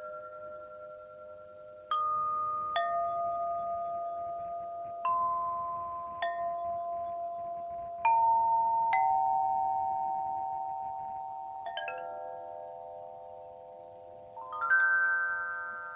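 Daiva, a suspended metallophone, struck note by note: single notes every second or two, each ringing on long and overlapping the next, stepping downward in pitch. Near the end a quick run of several notes, the loudest strike of all.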